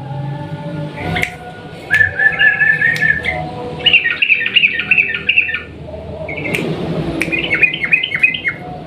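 Yellow-vented bulbul (trucukan) singing: three bursts of rapid, bubbling song, starting about two, four and seven seconds in.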